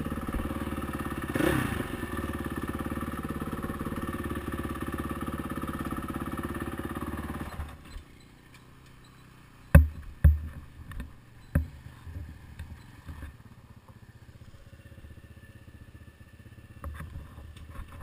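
Honda CRF450R dirt bike's single-cylinder four-stroke engine idling, blipped once about a second and a half in, then shut off about eight seconds in. After it stops come a few sharp knocks and clunks, the loudest three between about ten and twelve seconds in.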